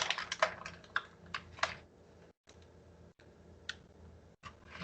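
Light clicks and taps of a measuring spoon on a bowl and spice container while paprika is spooned out, several quick ones in the first two seconds, then a lull with one click, and more near the end.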